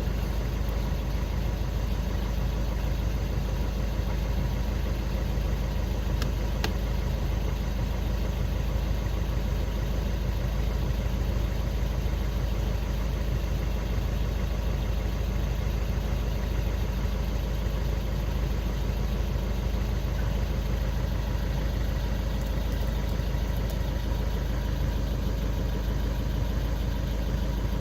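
VW Golf 6 engine idling steadily, running on a newly replaced crankshaft position sensor with the P0335 fault code cleared.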